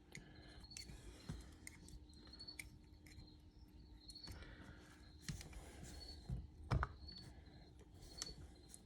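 Faint clicks and light taps of brake caliper parts being handled as a rubber dust boot is worked around a caliper piston, with a couple of louder knocks a little past halfway.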